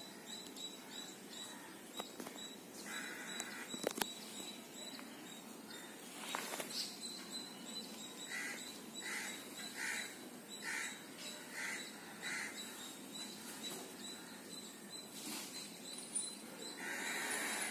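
Birds calling in the trees: one bird gives a run of about eight short, evenly spaced calls, roughly two a second, starting about eight seconds in, with a few similar calls near the start and the end, over a faint steady high tone.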